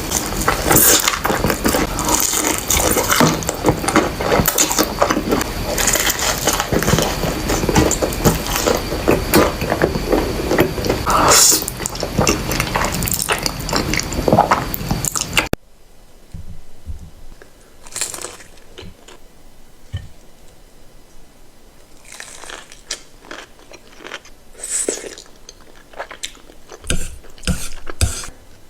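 Close-miked ASMR eating: dense crunching and chewing of crispy fried chicken, which cuts off abruptly about halfway through. Quieter, sparse chewing and wet mouth clicks follow.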